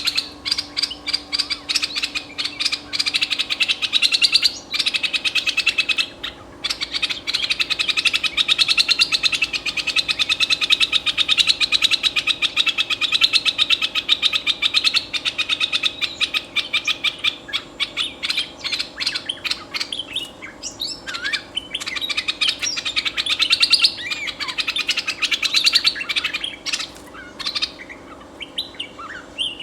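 Decoy bulbul (merbah) calling in a fast, chattering stream of short notes, almost without a break and pausing only briefly a few times.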